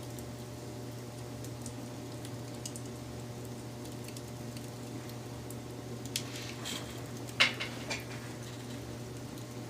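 Wood fire crackling: scattered small snaps over a steady low rumble, with a burst of louder pops about two-thirds of the way in.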